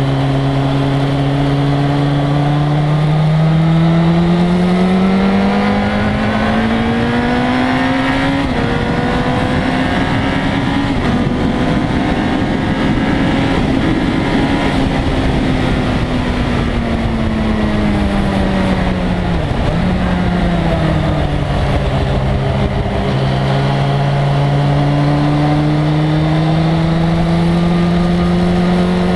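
1997 Suzuki GSX-R1100 inline-four engine under way on track, pulling hard with its pitch climbing through the first few seconds. Its pitch then sags and dips sharply near the middle as it slows for a corner, and climbs steadily again toward the end, over steady wind rush.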